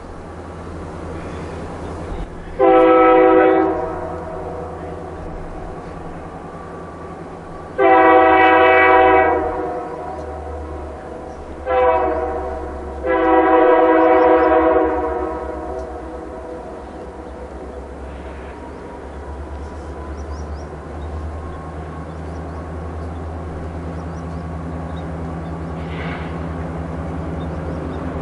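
Diesel locomotive air horn sounding the grade-crossing signal, long, long, short, long, over the steady low rumble of the locomotive's engine, which grows louder as the train comes closer.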